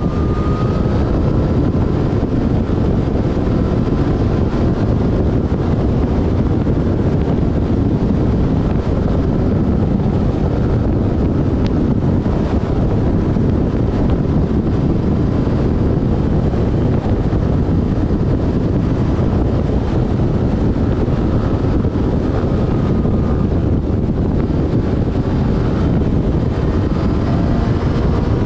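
Yamaha Fazer FZ6S's inline-four engine running at steady road speed, heard under heavy wind rush on the microphone. A faint engine whine drifts a little in pitch.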